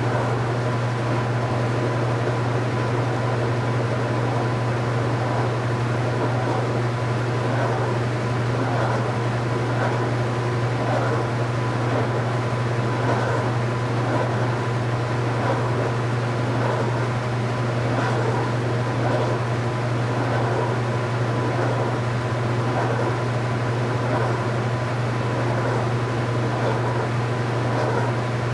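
2015 Speed Queen 8 Series top-load washing machine running with a steady low hum and a faint constant whine, unchanging throughout.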